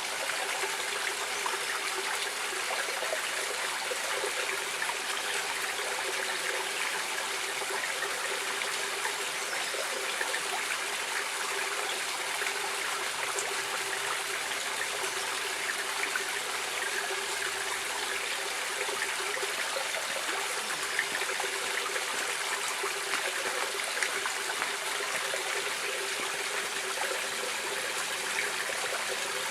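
Running water of a stream, a steady, unbroken rush with fine trickling.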